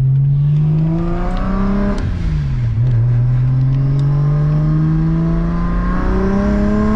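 BMW 335i turbocharged straight-six, converted from twin turbos to a single turbo, accelerating hard from inside the cabin. The revs climb, drop at an upshift about two seconds in, then climb steadily again.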